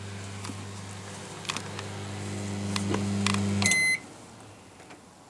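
Microwave oven running with a steady electrical hum that grows louder, then cutting off about three and a half seconds in with a single short electronic beep.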